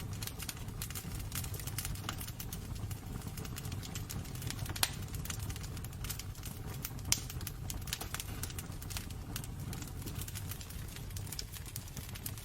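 Wood burning in a fireplace, crackling with frequent small pops over a steady low rumble of the fire, with two louder snaps about five and seven seconds in.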